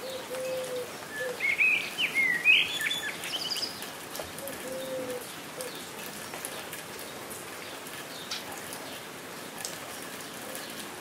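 Steady rain falling with birds singing. A burst of quick, high chirping phrases comes about one to four seconds in and is the loudest part, and a low, drawn-out call sounds a few times against the hiss of the rain.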